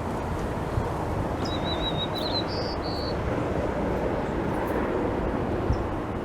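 A bird's brief warbling call about a second and a half in, ending in two short higher notes, over a steady low rushing background noise.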